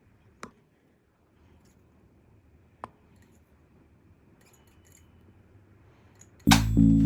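Quiet room with two short sharp clicks, a couple of seconds apart, from small objects being handled; background music with a steady bass comes in loudly near the end.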